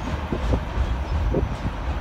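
Freight train wagons rolling away along the track: a steady low rumble with a few short knocks of the wheels on the rails.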